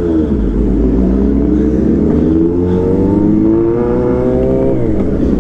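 Four-cylinder motorcycle engine accelerating hard: its pitch climbs steadily for about four seconds, then drops sharply at an upshift near the end and starts climbing again.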